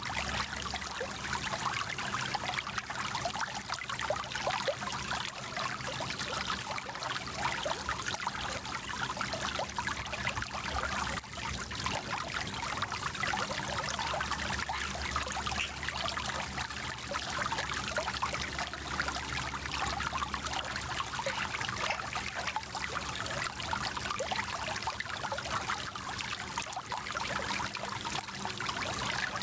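A small mountain stream running over stones, a steady rushing with fine gurgling and trickling splashes.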